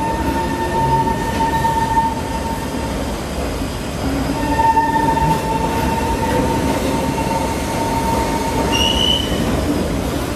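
Elevated metro train running along a curved viaduct, its wheels squealing in a steady high tone over the rumble of the cars. The squeal drops out for about two seconds in the middle, comes back, and ends with a short rising squeal near the end.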